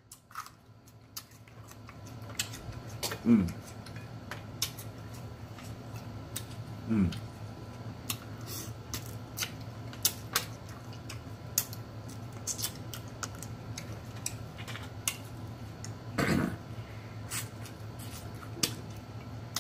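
Close-miked eating sounds: a steady run of sharp mouth clicks and smacks from chewing seafood and jalapeño, with two short falling hums about 3 and 7 seconds in and a louder burst about 16 seconds in, over a low steady hum.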